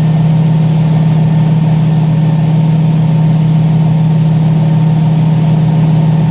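A boat's engine running steadily: one constant low hum with an even, fast pulsing and no change in speed.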